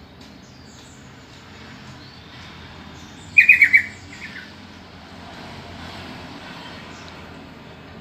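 Yellow-vented bulbul (trucukan) calling: a quick burst of about four loud, slightly falling notes a little over three seconds in, then a couple of fainter notes, over a steady background hiss.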